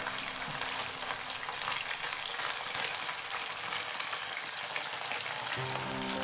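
Honey-glazed whole shrimp sizzling and crackling in a nonstick frying pan while being turned with tongs.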